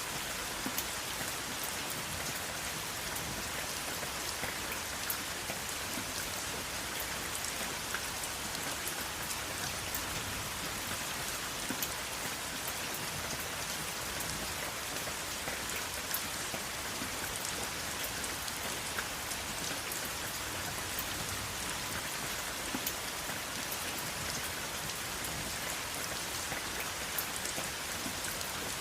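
Steady rain with no thunder: a constant hiss of falling rain, with many sharp individual drops ticking through it.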